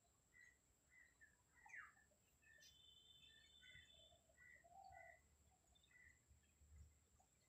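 Near silence, with faint bird chirps in the background: short scattered calls and one falling note about two seconds in.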